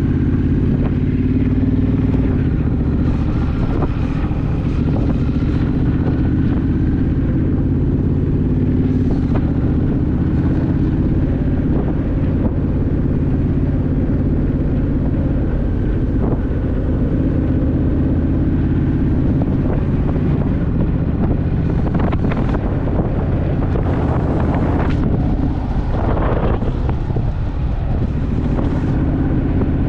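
Honda Rebel parallel-twin motorcycle engine running steadily while riding on the road, its pitch shifting a little now and then, with wind noise gusting on the microphone, most in the last third.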